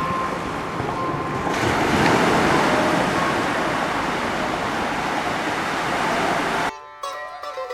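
Steady rush of sea surf on a beach. Near the end it cuts off abruptly and plucked sitar music begins.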